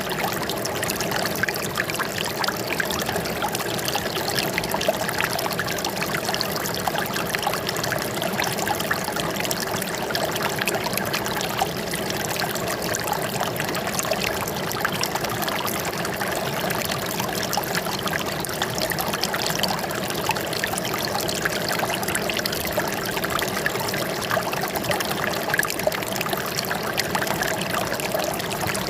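Water flowing and trickling steadily, an unbroken babble of running water such as a small stream or cascade.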